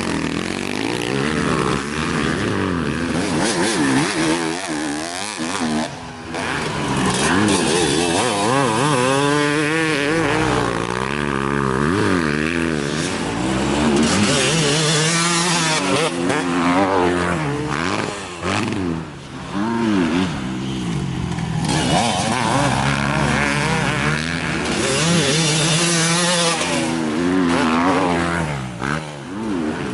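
Dirt bike engines revving hard, their pitch climbing and falling again and again as the bikes ride the track, with more than one engine heard at times.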